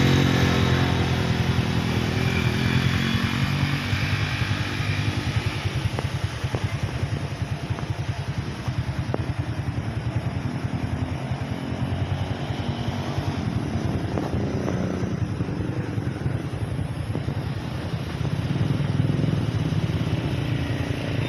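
Small motorcycle engine running steadily, its low pulsing note rising and falling a little in loudness, louder near the start and again near the end.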